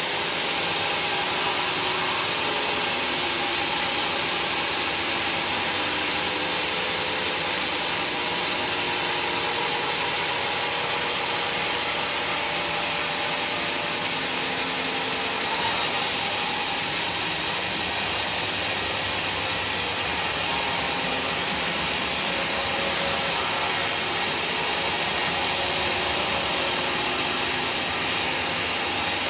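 Woodworking machinery running steadily with a constant mechanical noise, changing slightly in tone about halfway through.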